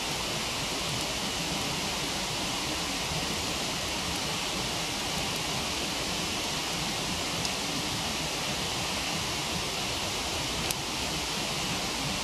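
Waterfall rushing steadily, with a campfire giving a faint crackle a few times, most clearly near the end.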